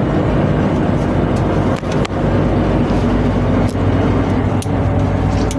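Steady, loud drone of a tugboat's machinery running, with a low constant hum and a few short knocks or clanks about two, four and four and a half seconds in.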